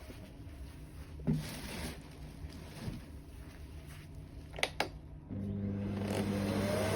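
A few sharp clicks, then about five seconds in a motor starts and runs with a steady hum, growing louder, with a rising whine near the end.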